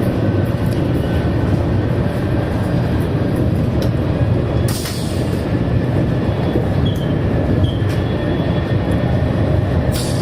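Steady running noise inside a TGV high-speed train cruising at speed: a low rumble of wheels and air on the car body. There is a short hiss about five seconds in and another near the end.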